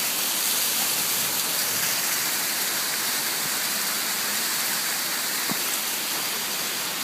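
Waterfall's rushing water: a steady, even hiss with little low rumble.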